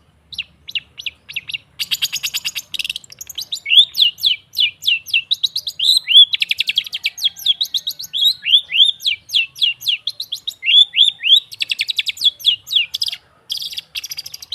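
Long-tailed shrike (cendet) singing: a fast run of short down-slurred whistled notes, broken several times by harsh rapid chattering bursts. It is a lure song meant to set a silent shrike singing.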